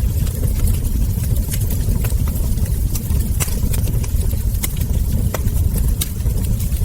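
Wood fire crackling: irregular sharp crackles and ember pops over a steady low rumble of burning.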